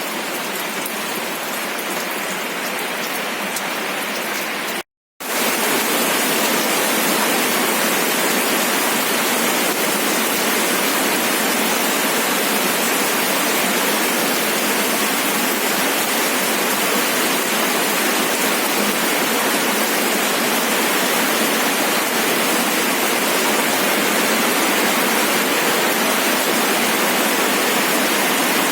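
Steady rain with patter of drops. About five seconds in it cuts out for a split second, then comes back slightly louder as a denser, even rush of falling water.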